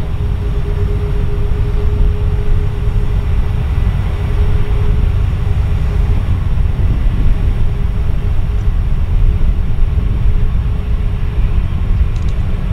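Airbus A320 jet engines rumbling, a loud steady low roar. A steady tone rides on top and fades out about five seconds in.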